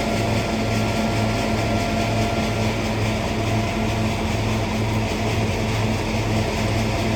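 Hazelnut thresher (patoz) running steadily, a continuous engine-driven machine drone with a low throb repeating a little faster than once a second.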